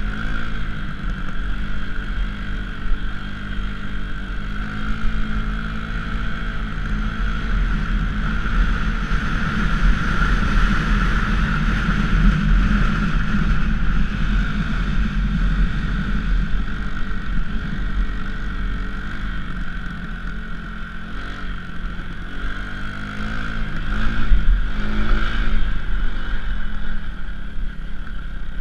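A 230cc dirt bike engine running while ridden, its pitch rising and falling as the throttle is opened and closed. It is loudest around the middle and again shortly before the end.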